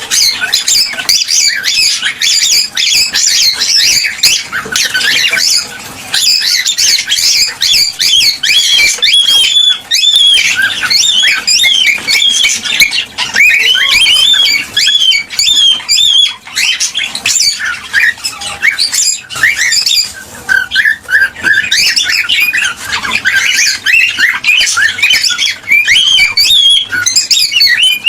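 Cockatiels chattering and whistling nonstop in fast, high, gliding chirps mixed with squawks.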